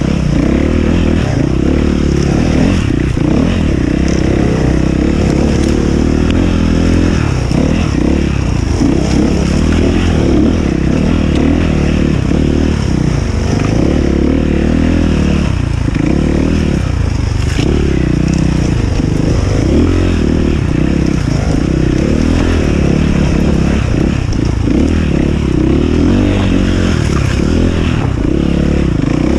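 Enduro dirt bike engine running and revving, its pitch rising and falling over and over as the throttle is worked.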